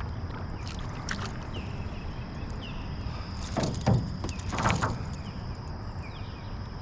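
Water splashing twice, about three and a half and four and a half seconds in, over a steady high-pitched insect drone and low river rumble.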